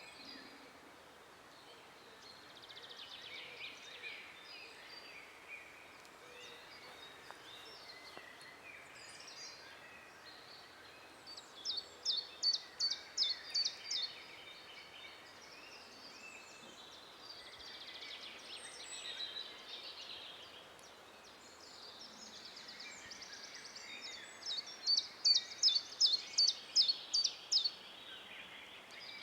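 Several songbirds singing in a forest over a steady background hiss, with scattered high chirps and trills. Twice, about twelve seconds apart, one bird sings a loud phrase of quick, sharp, repeated notes, about four a second for two to three seconds.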